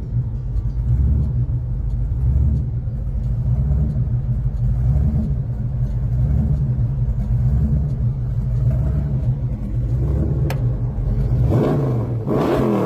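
Supercharged 454 big-block V8 in a custom 1967 Chevrolet El Camino idling with a deep, lumpy rumble, then revved once near the end, the pitch rising and falling back.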